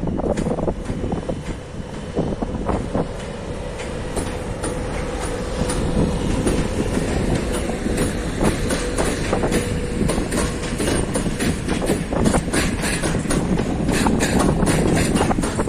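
Train passing on the track, its wheels clicking rhythmically over rail joints over a steady rumble, the clicks coming faster and denser near the end. A thin steady tone, likely wheel or flange squeal, rises over the rumble for a few seconds in the middle.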